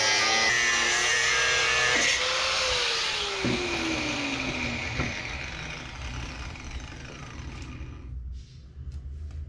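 Electric power tool working metal with a loud grinding noise, switched off about two seconds in; its motor then spins down, the pitch falling steadily over about three seconds, with a few light clicks.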